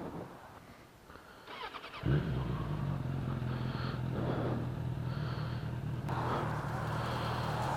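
Motorcycle engine running at steady revs, cutting in suddenly about two seconds in after a quieter stretch.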